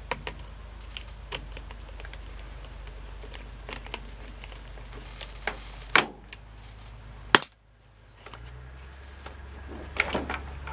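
Light clicks and taps of a screwdriver, screws and parts being handled on the washing machine's housing, with two sharp knocks about six and seven seconds in, over a steady low hum.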